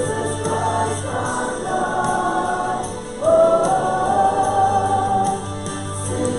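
Church music: voices singing a gospel hymn in long held notes, with a louder phrase coming in about three seconds in.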